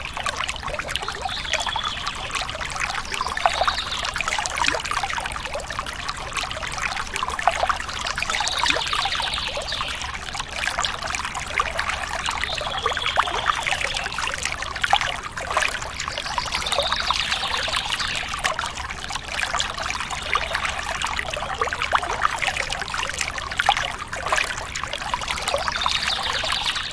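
Water trickling and splashing steadily, with many small drips and splashes.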